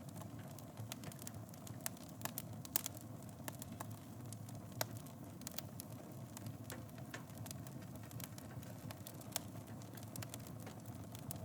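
Fire burning in a fireplace: a steady low rumble with frequent small crackles and sharp pops, the loudest pops about 3 and 5 seconds in.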